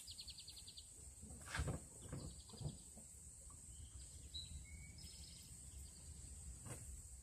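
Small birds chirping in short repeated trills, over a steady high-pitched whine, with a couple of soft knocks.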